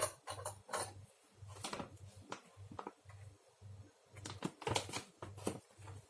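Irregular light clicks and taps of small household objects being handled, several a second, over a faint low hum.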